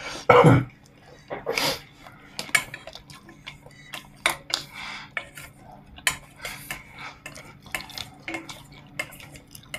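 Eating utensils clicking and scraping against bowls and plates during a meal, in scattered light clinks, with one louder thump about half a second in.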